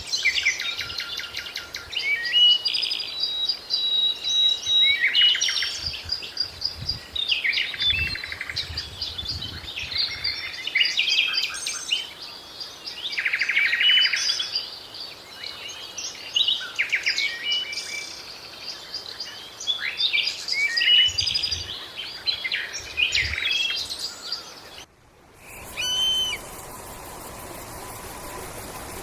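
A chorus of songbirds singing and chirping, with fast trills and clear whistles overlapping throughout. About 25 seconds in it cuts off, and a different recording begins: a steady hiss with a couple of short bird calls.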